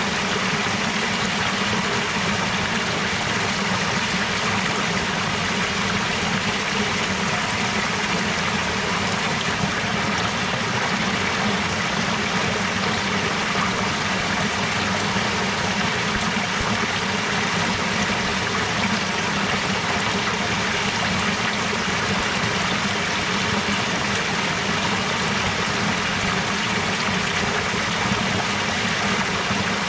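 Steady rushing and trickling of a clear-water stream, even and unbroken.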